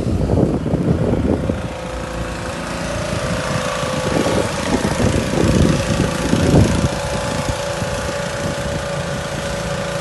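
An engine running steadily at a constant speed, with gusts of wind on the microphone at the start.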